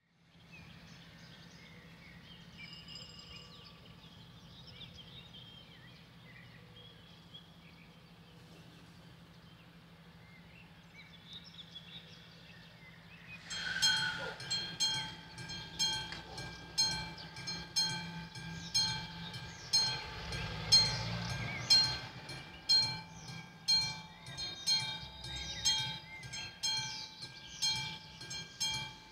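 Quiet background, then about halfway through a level-crossing mechanical warning bell starts ringing: rapid metallic strikes with a sustained ringing tone, pulsing in loudness one to two times a second, signalling that a train is approaching.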